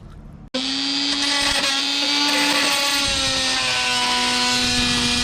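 A handheld power tool running steadily at high speed, cutting in abruptly about half a second in, its whine sagging slightly in pitch under load. It is being used on a stripped fender bolt that keeps the fender from coming off.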